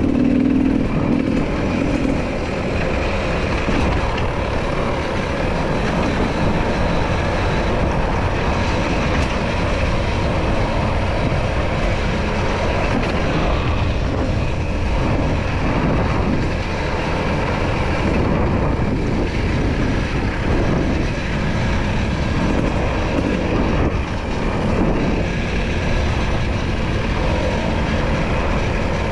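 Enduro motorcycle engine running steadily, with a dense, even rumble underneath.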